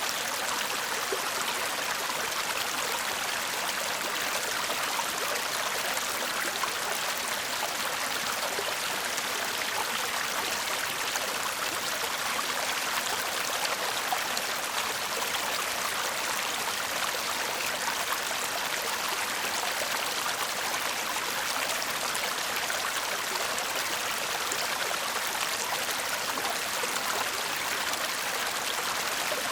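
Shallow stream babbling steadily over stones: an even, unbroken rush of water.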